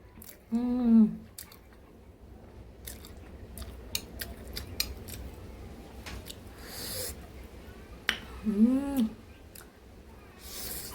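A person eating ramen noodles close to the microphone: wet chewing with many sharp mouth clicks and smacks, and a couple of short slurps. Twice, about half a second in and again about eight and a half seconds in, there is a short pleased 'mmm' hum that rises and falls in pitch.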